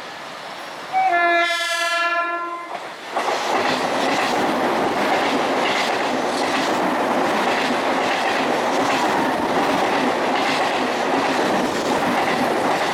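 Mumbai suburban electric multiple unit (EMU) train sounding its horn in one blast of about two seconds, then running through the station at speed without stopping: a steady loud rush with repeated clatter of the wheels as the coaches pass.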